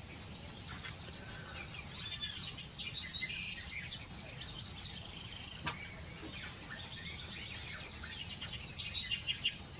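Parrots chirping and calling: a string of short, high, arched calls and quick chirps, loudest around two seconds in and again near the end, over a steady high-pitched tone.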